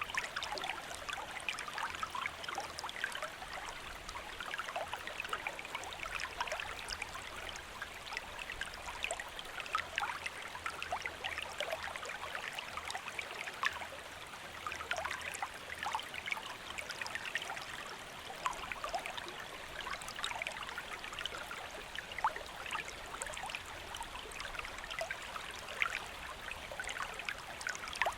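Shallow stream flowing steadily, water trickling and splashing over rocks in a continuous babble of small quick splashes.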